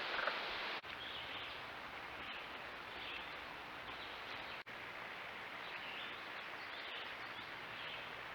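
Steady outdoor background hiss with faint, short high chirps recurring about once a second. It drops out briefly twice, about a second in and again past the middle.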